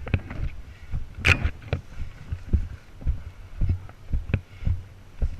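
Dull low thumps about two a second, with a sharper crack about a second and a half in: footsteps and gear knocking against a camera carried by a walking airsoft player.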